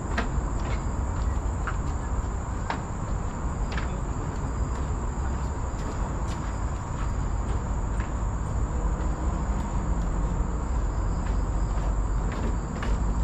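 Insects in tropical forest keeping up a steady, unbroken high-pitched drone, over a low rumble with scattered short ticks.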